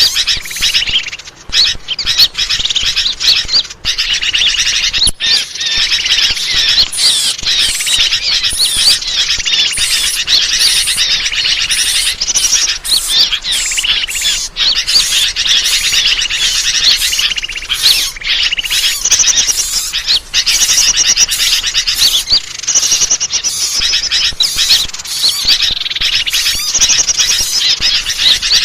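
Dense chorus of small birds chirping and twittering, many rapid calls overlapping without a break: bird-lure (pikat) call sound used to draw in birds.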